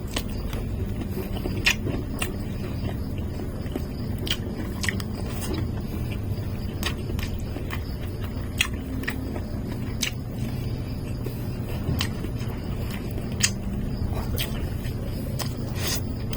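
Close-up eating sounds of a person chewing food, with irregular wet mouth clicks and smacks every second or so, over a steady low rumble.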